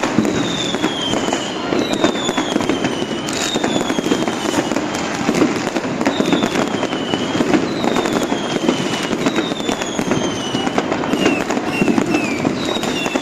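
New Year's Eve fireworks and firecrackers going off nonstop: a dense patter of bangs and crackles, with many whistling rockets whose whistles fall in pitch over about a second each.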